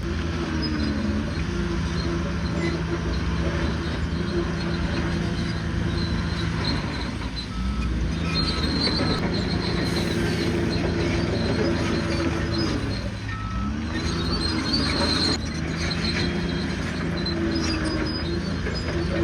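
Bulldozer's diesel engine running under load, its pitch sagging and recovering every few seconds as it lugs and picks up again, over steady crawler-track clatter with brief high squeaks.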